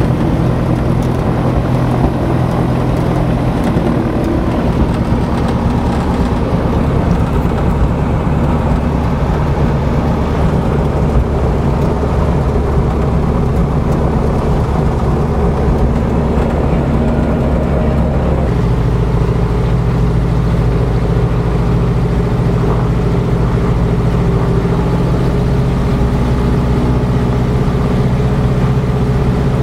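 Lancair 360's four-cylinder Lycoming piston aircraft engine running steadily after start-up, propeller turning. About two-thirds of the way through, the engine note shifts to a different steady speed.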